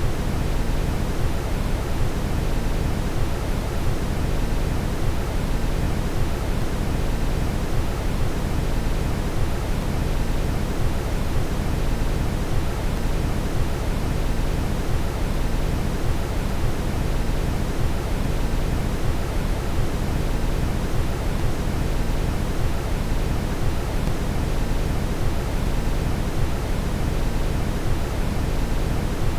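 Steady brown noise: an even, deep rushing hiss, strongest in the low end, with no change in level.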